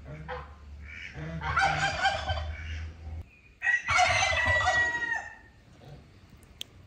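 A bird calls twice, loud and long: each call lasts about two seconds, and the second holds a steady note before falling off at the end.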